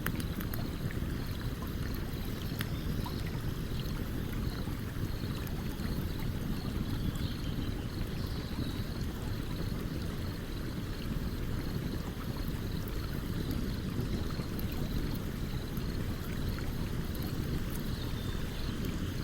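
Stream water running in a steady low rush, with a few faint sharp crackles from a campfire. A faint high chirp repeats about twice a second.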